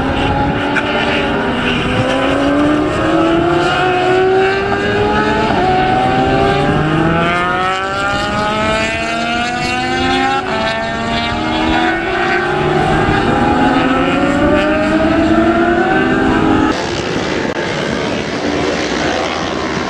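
Several racing motorcycles at full throttle, their engines rising in pitch and dropping back through repeated gear changes, one over another. The sound drops and changes abruptly near the end.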